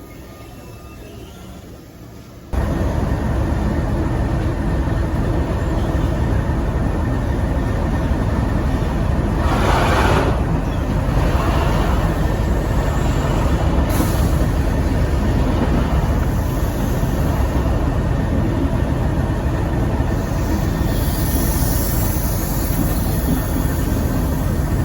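Heritage diesel locomotive's engine running loud and steady, cutting in abruptly a couple of seconds in, with a brief hiss about ten seconds in.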